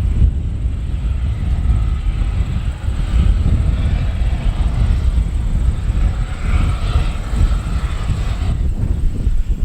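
A passing aircraft's engines under heavy wind buffeting on the microphone. The engine sound swells in the second half and fades away near the end.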